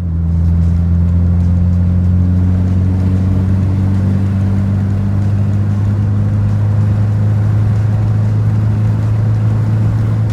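Car engine running at a steady, unchanging speed with a deep, even hum and no revving.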